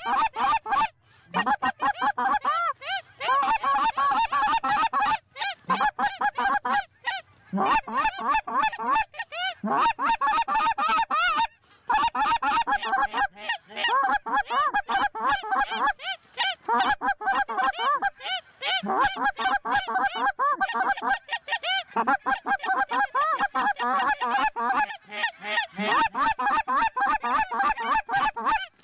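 A large flock of lesser Canada geese calling: many overlapping short honks and clucks in a dense, almost continuous chorus, with only brief lulls.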